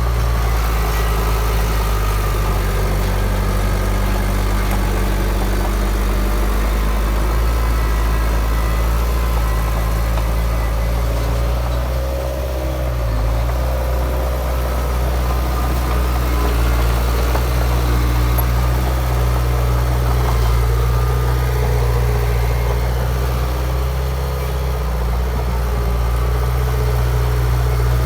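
Heavy diesel engine of earthmoving machinery running steadily, a low drone whose note sags briefly about twelve seconds in and again near the end.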